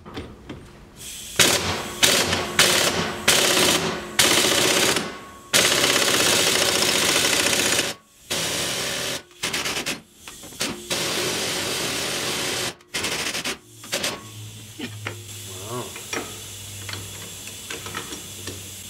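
Impact wrench hammering in repeated bursts, a few short ones and then several runs of one to three seconds each, as it drives the nut of an improvised hub puller against a stubborn rear hub. It stops about fourteen seconds in, leaving a low steady hum and a few light clinks.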